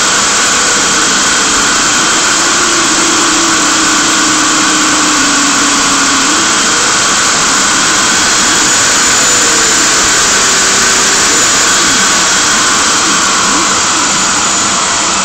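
Enertrac electric hub motor spinning at high speed on a bench rig: a loud steady rush with faint tones that drift up and down.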